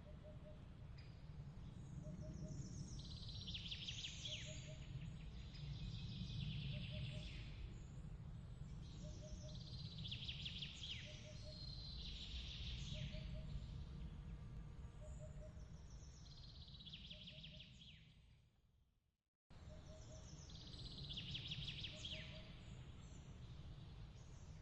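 Songbird phrases every few seconds over a steady low rumbling noise, with a faint double chirp repeating about every second and a half. About three-quarters of the way through, everything fades out to silence and then cuts straight back in, the join of a looped ambience track.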